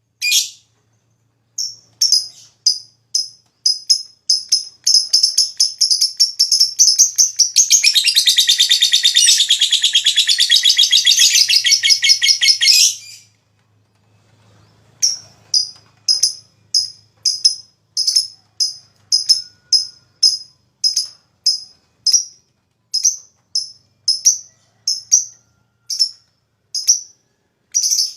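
Lovebird calling: repeated short, high chirps a few times a second. About 7 seconds in they run into a long, fast rattling trill, the drawn-out 'ngekek' chatter, which lasts about five seconds. After a short pause the single chirps resume.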